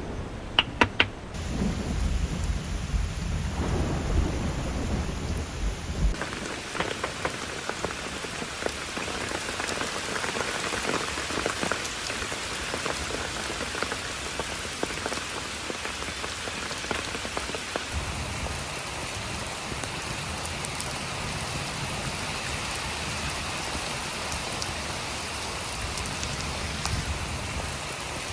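Heavy rain falling steadily in a tropical rainforest. Thunder rumbles low for the first six seconds or so, with a few sharp snaps about a second in, and then only the rain goes on.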